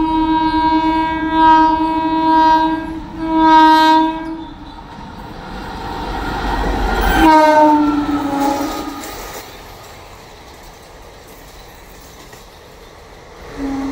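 Indian Railways locomotive air horn sounding two long blasts as an express train approaches at speed. The rush of the train builds and peaks as the locomotive passes close, with the horn sounding again a little lower in pitch. Then comes the steady rumble and clatter of the coaches running past, and the horn sounds once more near the end.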